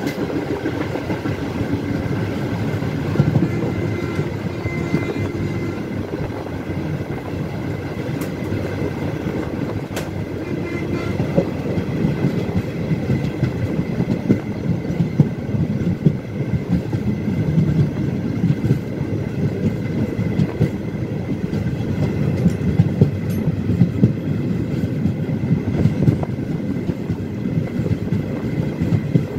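Express train running along the track, heard from on board: a steady rumble of the coach wheels on the rails, with some clickety-clack over rail joints.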